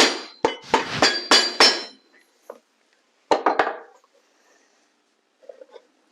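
Shoemaker's hammer tapping down a freshly glued and pressed shoe sole: a quick run of sharp blows, a short pause, then a few more, and lighter knocks near the end.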